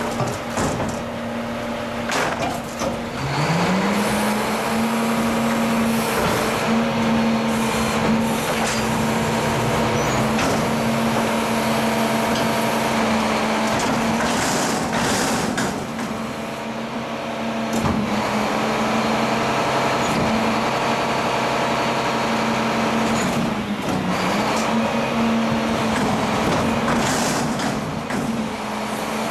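Truck engine running. About three seconds in it speeds up from a low hum to a steady higher speed and holds there, sagging briefly twice, with scattered short hisses and clatters over it.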